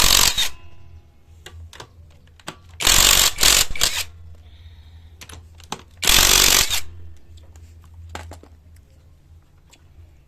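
Impact wrench hammering in three short bursts, undoing bolts on a Suzuki Access 125 scooter engine during a top-end teardown; small clicks of tools being handled between bursts.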